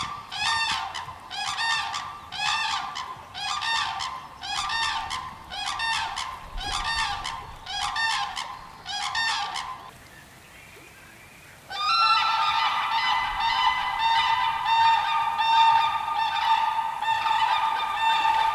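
A bird calling over and over, loud pitched calls at about one and a half a second, which stop about ten seconds in. After a short lull a denser run of rapid calls starts abruptly and carries on.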